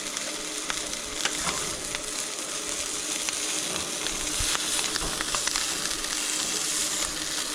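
Food sizzling in a frying pan: a steady hiss dotted with small crackles and pops.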